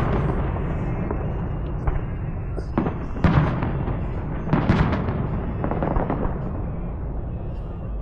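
Fireworks exploding: about five booms with crackling tails, the strongest a little after three seconds and near five seconds, over a steady low rumble.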